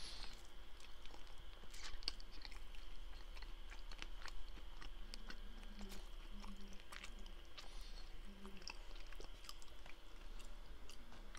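A person chewing a mouthful of homemade apple, strawberry and chocolate chip muffin, with irregular small wet mouth clicks throughout.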